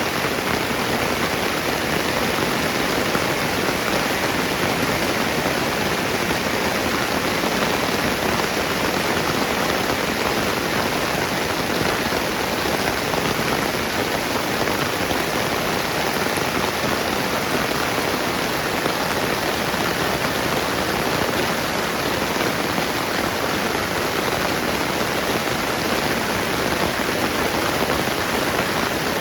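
Steady rain falling, an even, unbroken hiss with no pauses or distinct drops standing out.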